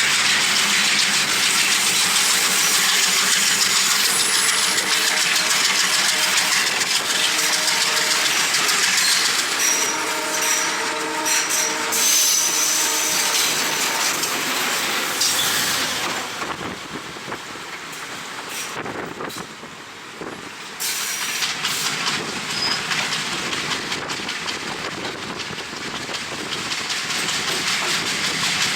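Passenger train running along the track, with rolling rail noise and wind blowing hard across an open window. It eases off for several seconds a little past the middle, then builds again.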